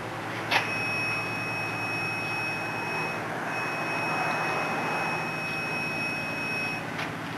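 Balancing machine measuring an engine flywheel: a click about half a second in, then a steady high-pitched whine that breaks off briefly about three seconds in, resumes, and stops shortly before a click near the end.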